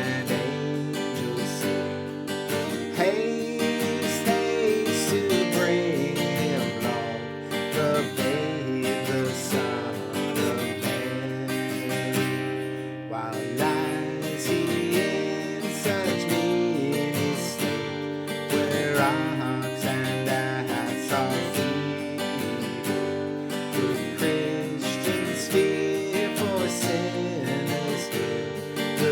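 Seagull S6 mahogany acoustic guitar played alone, chords and melody notes ringing steadily with no singing over them.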